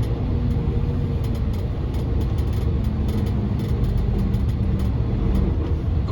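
Steady low rumble of a car driving: engine and road noise heard from inside the vehicle, with a faint hum.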